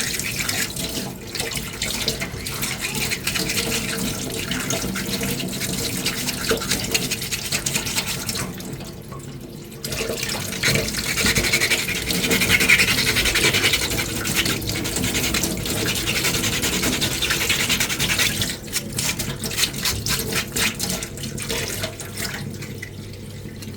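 Sanding small puttied finger-armour pieces: a continuous scratchy rubbing with a steady low hum under it, pausing briefly about nine seconds in.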